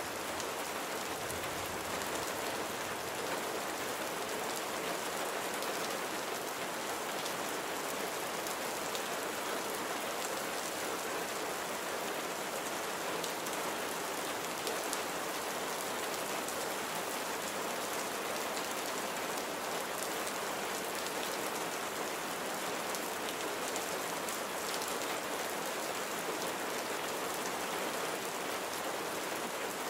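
Steady rain falling, an even hiss of many drops without let-up or thunder.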